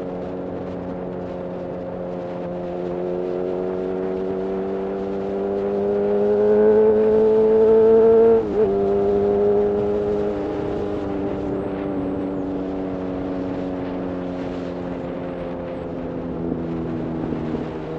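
Honda CB1000R's inline-four engine running through a Black Widow full-system exhaust: the engine note climbs steadily as the bike accelerates, dips sharply with an upshift about eight and a half seconds in, then slowly falls as the throttle is eased off.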